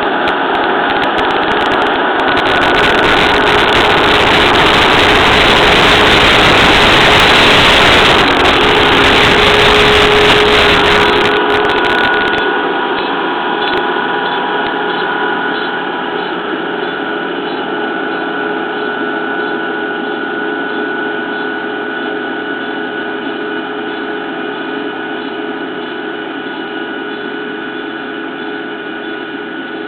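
Rice combine harvester running under load, its engine and threshing machinery giving a steady mechanical drone with a constant whine. A louder rushing noise fills the first third, then the sound grows gradually quieter through the rest.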